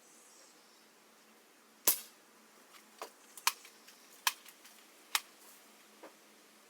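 A single sharp rifle shot about two seconds in, followed by several fainter clicks and knocks over the next few seconds.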